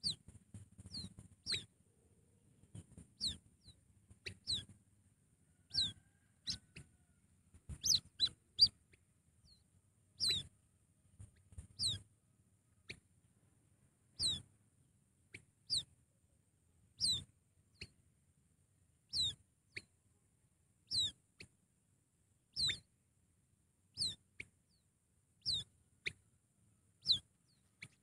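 A bird calling over and over: short, high whistled notes that slide downward, each followed by a fainter short note, coming irregularly at first and then regularly about every one and a half to two seconds.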